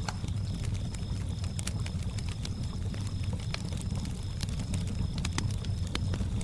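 Campfire crackling with frequent sharp pops, over a low steady wash of lake water, while crickets chirp in an even, repeating pulse.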